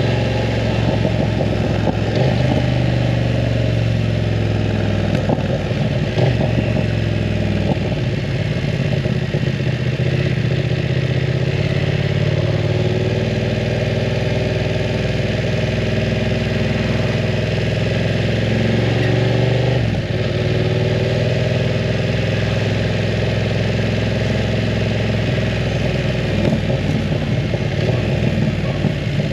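BMW F900 R parallel-twin engine running through a full aftermarket exhaust, its note rising and falling with the throttle, with breaks in the pitch where gears change.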